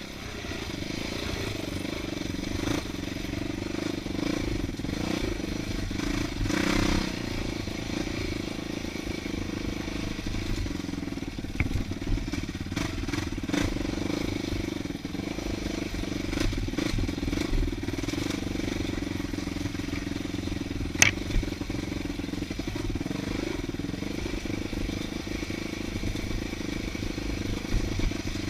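Dirt bike engine running steadily under way on a trail, with scattered clicks and knocks and one sharp knock about two-thirds of the way through.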